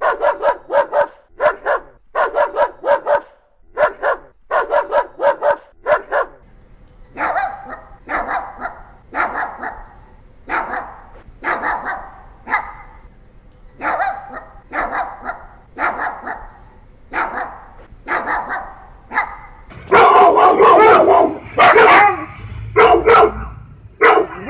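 Dogs barking in a series of single barks, three breeds in turn: a Boxer's quick barks, then a Pomeranian's barks about once a second, then louder, denser barking from a Siberian Husky near the end.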